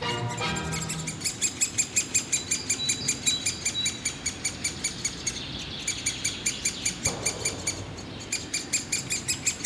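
Great spotted woodpecker nestlings begging from the nest hole with a rapid, continuous chatter of short, high calls, about six a second, breaking off briefly twice. A single knock sounds about seven seconds in.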